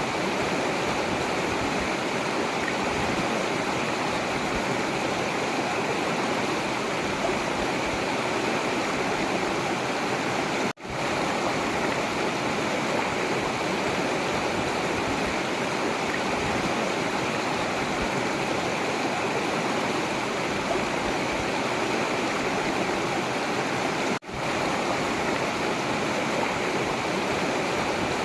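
Forest river water rushing steadily in an even, unbroken wash. The sound cuts out for a split second twice, about 11 and 24 seconds in.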